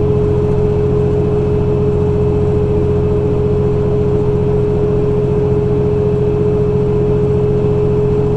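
Semi-truck's diesel engine running at a steady speed under way, heard in the cab, with a steady high whine over a low drone.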